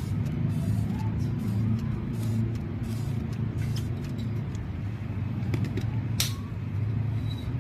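Steady low engine-like rumble, like a motor vehicle running, with a few scattered sharp clicks, the loudest about six seconds in.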